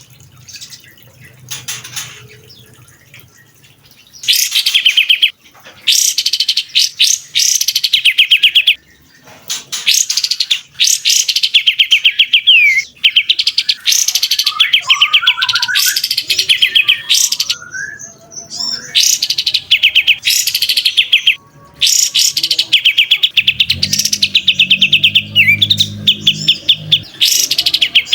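Recorded songbird singing in repeated loud, fast chattering trills, each phrase about one to two seconds long and several ending in a quick downward slur, after a quiet opening of about four seconds. A low hum sits under the song near the end.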